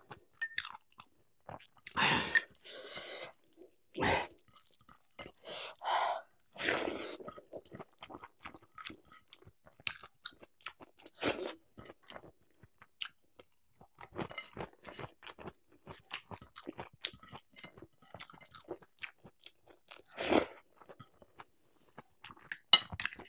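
Close-up eating sounds of a person chewing and crunching food, with many small mouth clicks and several louder crunches.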